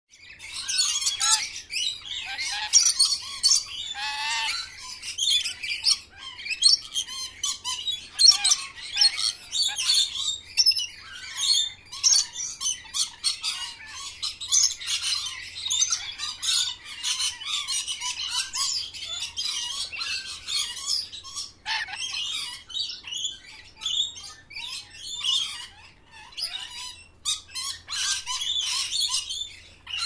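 Many birds chirping and calling at once, a dense chatter of short, high, overlapping calls.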